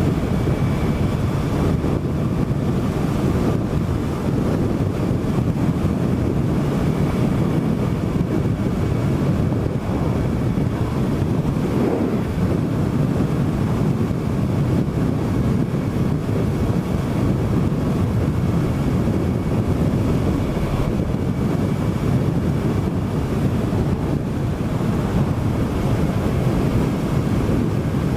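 Steady wind rush on the microphone of a moving motorcycle, with the Suzuki GSX-S1000's inline-four engine running underneath at a steady speed.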